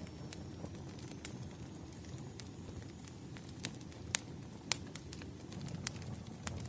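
Wood fire crackling: a steady low rumble with scattered sharp pops, the two loudest a little after four seconds in.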